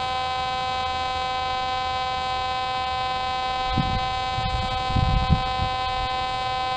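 MX50 metal detector sounding a steady, unbroken target tone at one fixed pitch, a buzzy hum that signals a dime in the ground. A few low thuds sound around the middle.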